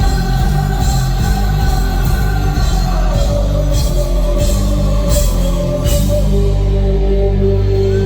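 Heavy metal band playing live through a PA: distorted guitars, bass and drums, with held chords and cymbal crashes, the chord moving down about three seconds in.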